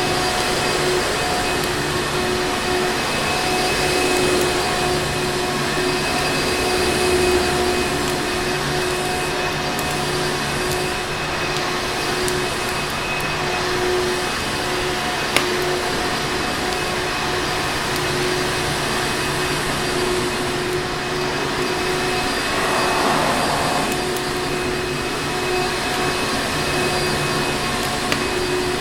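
Electric vacuum cleaner running steadily: a constant rush of air with a steady motor whine on top. A single faint click about halfway through.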